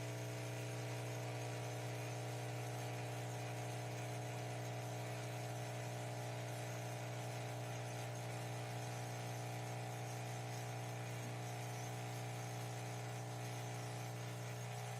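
Nespresso Gran Lattissima espresso machine running with a steady, even hum.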